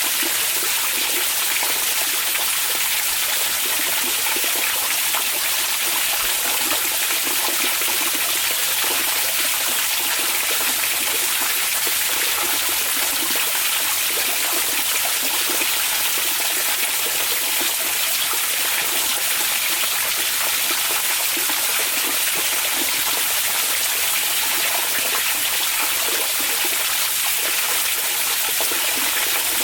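Hot spring water flowing and splashing steadily into a bath, an even rushing hiss with no breaks.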